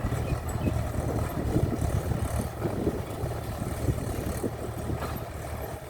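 Farm tractor's diesel engine running steadily, with irregular clattering knocks over the low engine hum.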